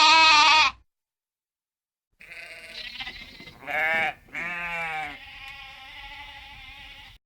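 A sheep bleating: one loud wavering bleat at the very start, then after a short silence two more bleats about four seconds in, followed by a quieter, steadier sound.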